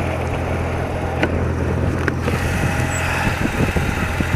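BMW R80RT's air-cooled flat-twin engine running steadily at low road speed, with road and wind noise. About two seconds in, the hiss in the upper range gets louder.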